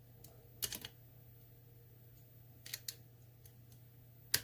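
Lock pick working the spool-pinned stack of an ASSA Twin Combi pin-tumbler lock under tension, giving sharp small metallic clicks: a quick few about half a second in, two around the middle, and a louder single click near the end.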